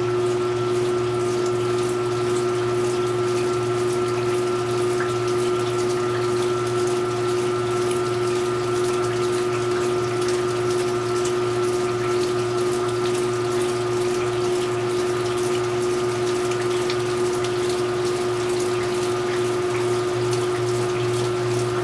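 Speed Queen top-load washing machine's pump running steadily, a constant hum with water rushing through it, as the tub drains.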